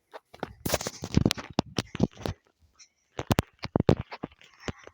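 Walking and handling noise: irregular scrapes, crunches and knocks, a few every second with short gaps between them.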